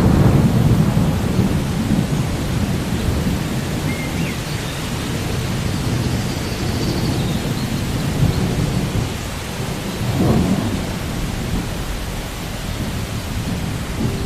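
Steady rain with rolling thunder: a heavy low rumble at the start that fades over a couple of seconds, and a smaller rumble about ten seconds in.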